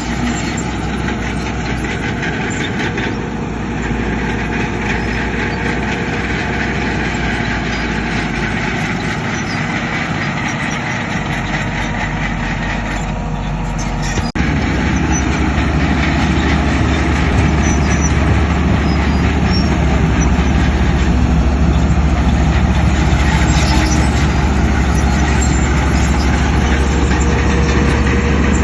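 Diesel engines of heavy earthmoving machinery running steadily. About halfway through, the sound changes suddenly and becomes louder and deeper.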